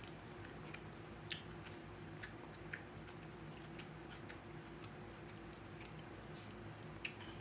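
Faint chewing of takeout chicken and green beans, with a few small, scattered mouth clicks over a steady low hum.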